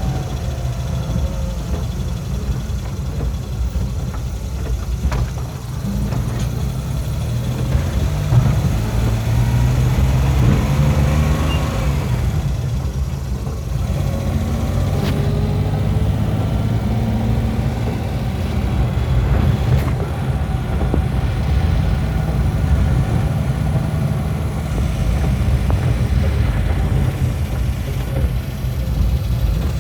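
Motor vehicle running, a steady low rumble of engine and road noise, with the engine pitch rising and falling as it speeds up and slows down.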